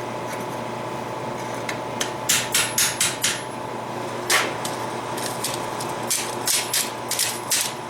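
Hand hammer striking hot steel on an anvil to widen a forged ring-forming tool so it fits the log end. It starts with a quick run of about five blows, then a single blow, then steady hammering at about three blows a second, all over a steady background hum.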